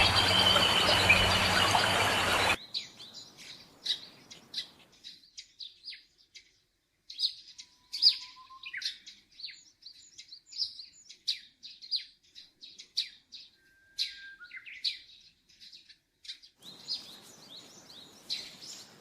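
Small birds chirping: many short, high calls, scattered irregularly, some coming in quick runs. At the start, a loud, dense hiss with a thin high steady whine plays over them and cuts off abruptly about two and a half seconds in.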